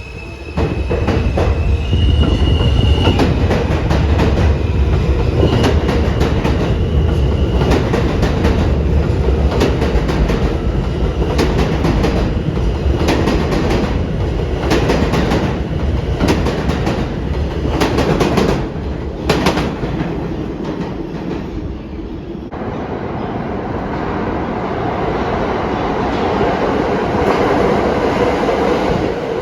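New York City subway train running on the rails: a loud rumble with rapid wheel clicks over rail joints and brief high wheel squeals in the first several seconds. The clicking stops about twenty seconds in, leaving a steady rumble.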